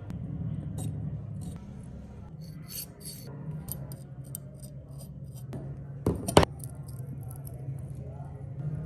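Steel scissors being opened and shut, the blades snipping and clicking in quick runs, with two louder sharp clacks about six seconds in, over a steady low hum.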